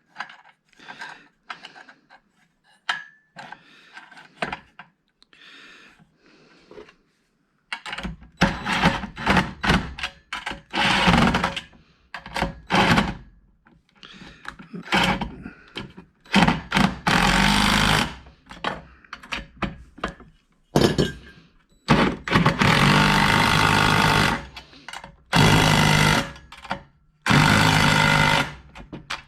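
Impact driver with a socket running nuts down onto bracket bolts in repeated bursts, some short and some lasting a couple of seconds, starting about eight seconds in. Before that, light clicks and clatter of parts being handled.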